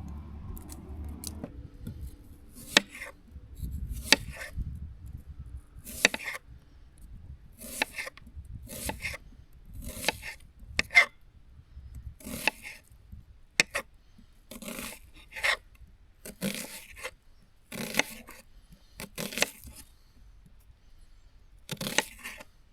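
A knife cutting through crisp food on a wooden board, a short rasping stroke roughly once a second, unevenly spaced.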